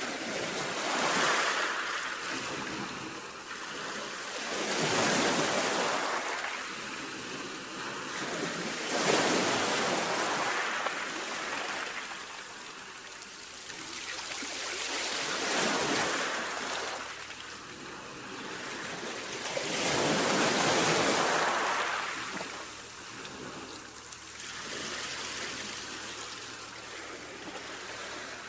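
Sea waves breaking and washing up on a shore, the surf swelling and ebbing again every few seconds.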